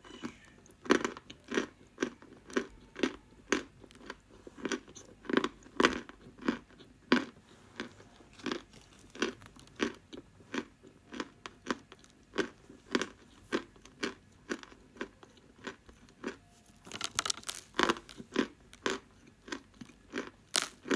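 Close-miked crunchy chewing of a dry lump of edible clay, steady bites at about one and a half a second, with a quicker flurry of crunches about seventeen seconds in.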